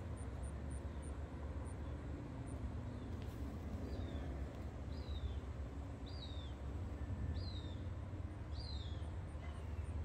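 A steady low rumble, with a bird repeating a short, high, downward-slurred call about once a second from about four seconds in.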